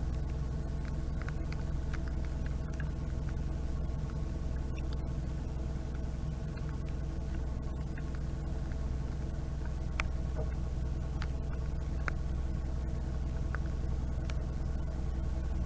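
Narrowboat's diesel engine running steadily, a low even drone, with scattered ticks of raindrops striking the camera.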